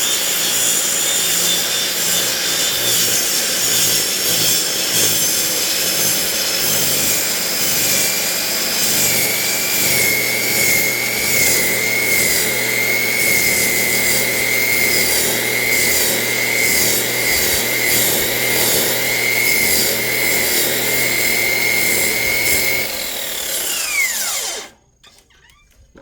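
Electric high-speed cut-off saw with a saw blade cutting through a firewood log: a loud steady motor-and-blade noise with a wavering high whine while the blade is under load. Near the end the cut finishes, the motor is switched off and winds down, falling in pitch, and the sound stops.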